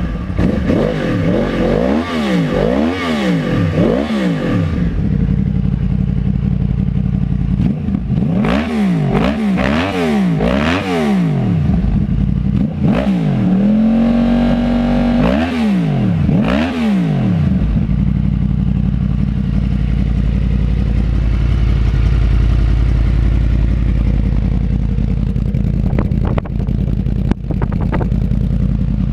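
2011 Yamaha YZF-R1 crossplane inline-four engine through an Akrapovič full exhaust, revved in quick blips that rise and fall in bursts of three or four, with one rev held briefly about halfway through. For the last third it settles to a steady idle.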